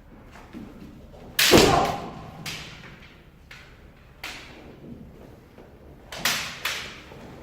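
Kendo sparring: about five sharp cracks and thuds of bamboo shinai strikes and stamping feet, echoing in a large hall. The loudest comes about a second and a half in, and a quick pair comes near the end.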